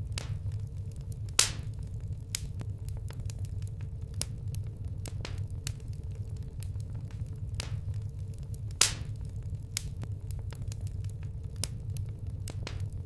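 Wood campfire crackling: irregular sharp pops and snaps from the burning wood, two much louder pops about a second and a half in and near nine seconds, over a steady low rumble.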